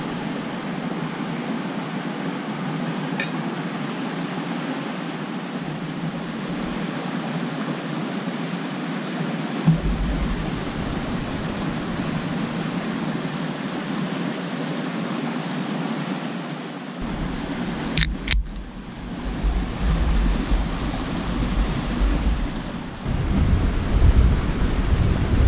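Steady wind and lake water noise, with gusts buffeting the microphone as a low rumble that comes and goes and grows near the end. Two sharp clicks about eighteen seconds in.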